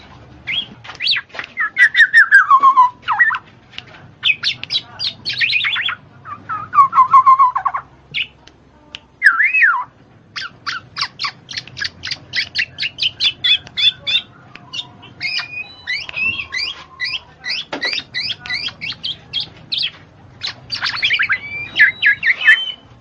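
A bird singing a loud, varied song of slurred whistled notes and fast runs of sharp chirps, broken by short pauses.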